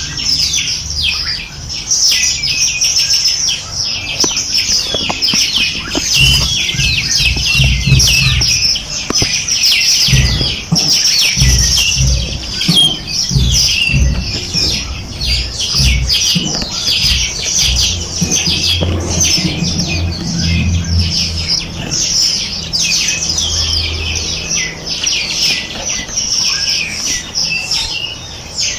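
A flock of small birds chirping and twittering continuously, many rapid overlapping chirps at once. A low rumble comes and goes underneath.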